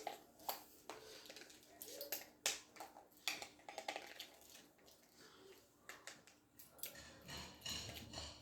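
Faint, scattered clicks and light rustling from hands handling small parts and wires.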